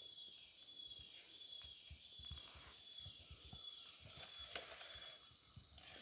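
Rainforest ambience: a steady high-pitched insect drone in two thin tones, with faint low bumps and one sharp click about four and a half seconds in.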